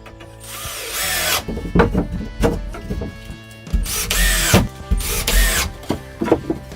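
Power drill run in three bursts, each spinning up and winding down, with short knocks between them. Background music plays underneath.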